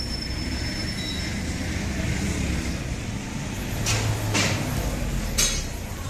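A vehicle engine rumbling steadily, with three short noisy clatters about four to five and a half seconds in.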